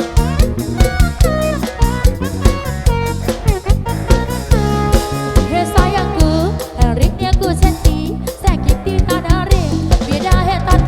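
Live band music: drums keep a fast, regular beat under a melody line.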